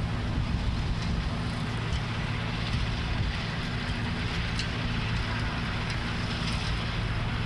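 Tractor engine running at a steady pitch while mowing, with a constant rushing noise over it.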